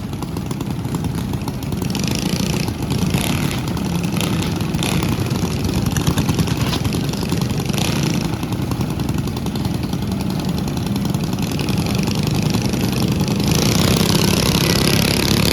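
Small mini bike engines idling, with short revs now and then, growing louder near the end.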